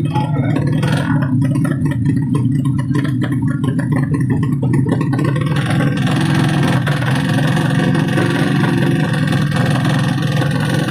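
Underbone drag-race motorcycle engine running loudly and steadily, turning harsher with more high-pitched noise from about five and a half seconds in.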